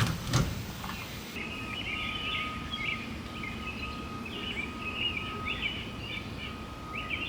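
Birds chirping busily and without pause, over a faint steady high hum, after a couple of short knocks at the start.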